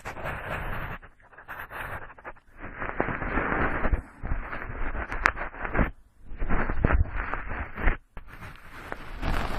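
Cotton swab rubbing and swirling inside the ear canal into a binaural microphone: close, loud scratchy rustling in strokes a second or two long, with brief pauses and small crackles.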